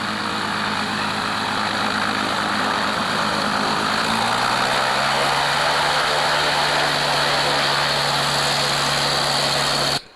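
Propeller aircraft engine running loudly and steadily, its pitch stepping up slightly about four seconds in, then cutting off abruptly near the end.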